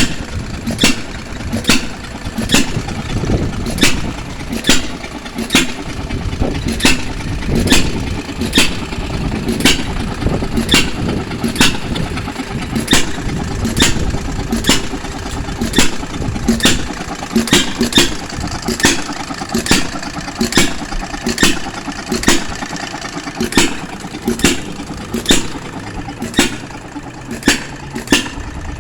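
Hit-and-miss engine running an ice cream freezer, with a sharp crack about once a second over a steady low rumble.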